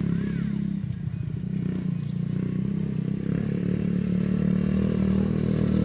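Mini bike's small engine running steadily, growing louder toward the end.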